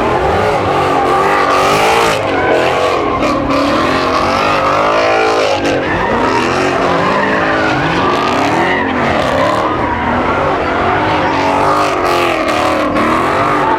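Car engines revving hard, their pitch rising and falling again and again, over continuous tyre squeal and skidding from cars spinning their wheels and drifting.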